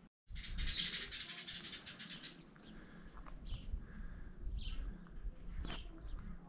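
Birds calling. A dense burst of rapid high twittering fills the first two seconds, then a single bird repeats a short high call about once a second.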